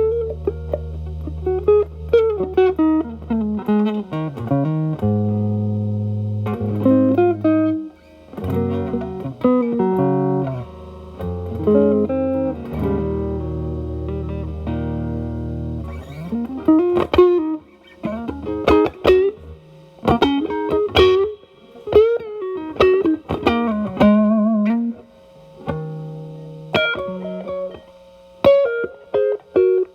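Telecaster played through an E.W.S. Brute Drive distortion pedal into a Marshall Valvestate's drive channel: a bluesy improvised line of single notes and held low notes, with string bends in the second half. It is the cleaned-up tone, most likely the guitar's volume rolled back to tame the overdrive.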